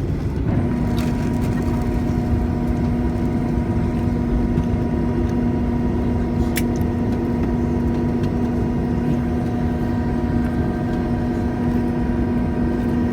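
Cabin noise inside a Boeing 737-800 taxiing after landing: a steady low rumble, with a steady hum joining about half a second in. A single light click comes about six and a half seconds in.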